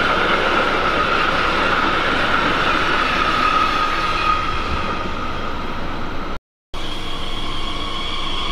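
A freight train of hopper wagons rolling past with the steady noise of wheels on rail. After a brief dropout about six and a half seconds in, a Class 442 Talent 2 electric multiple unit pulls in with a whine of several high steady tones from its electric drive.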